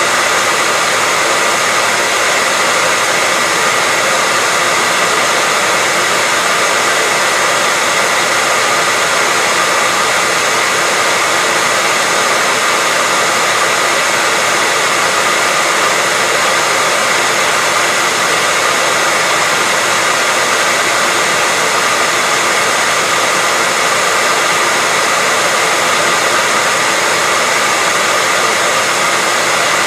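Hair dryer running continuously at a steady speed: an even, unchanging blowing hiss with a faint high whine from the motor and fan.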